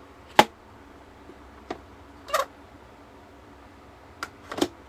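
Handling clicks and knocks from a plastic-bodied electric kettle being handled: one sharp click about half a second in, a brief scrape a little before the midpoint, and two lighter knocks near the end.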